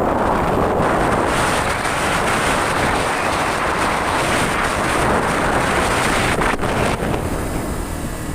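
Wind buffeting the microphone over the steady noise of a moving vehicle while travelling.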